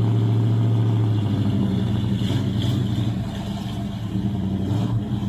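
Car engine running with a steady, even note that shifts about a second in and stays busier after that.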